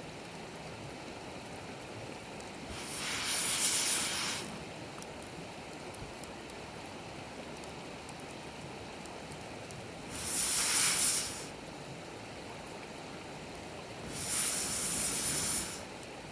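Campfire burning with a steady rushing crackle, broken three times by loud hisses about a second and a half long, one a few seconds in, one about ten seconds in and one near the end.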